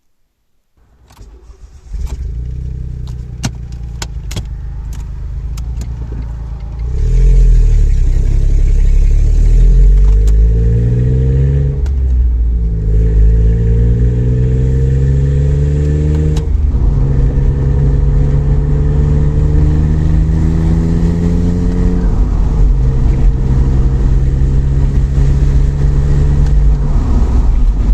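2003 Smart Roadster's turbocharged three-cylinder engine catching about two seconds in and running through a straight-through exhaust fitted with a perforated baffle, then pulling away and accelerating through the gears. Its pitch rises in each gear and drops at three gear changes. A few sharp clicks come just before it starts.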